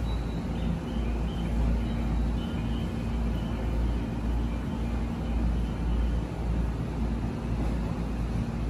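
JR Musashino Line electric train standing at the platform, its equipment giving a steady hum over a low rumble.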